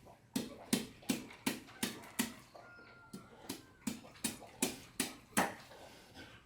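Steady rhythmic chopping, about three sharp knife strikes a second on a wooden board, each with a dull thud.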